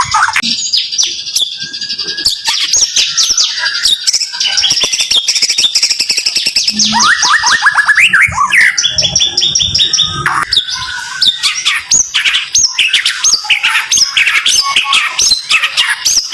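White-rumped shama (murai batu) singing its rapid-fire song: dense, fast strings of sharp whistled and chattering notes with almost no gaps, including a run of quick rising notes about seven seconds in.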